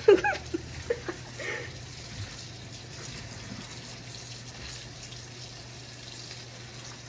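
Kitchen tap running, its water pouring over chopped lettuce in a strainer as the lettuce is rinsed in the sink. A few brief louder sounds come in the first second and a half, then the water runs on steadily.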